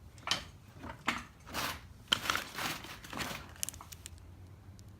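Rustling and handling of firework packaging: several short crinkly bursts in the first three seconds or so, then only a few faint clicks.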